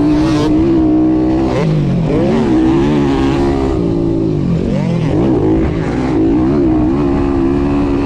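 YCF 190 pit bike's single-cylinder four-stroke engine being ridden hard, its pitch dropping and climbing again several times as the throttle is rolled off and on. Wind rushes over the chest-mounted microphone.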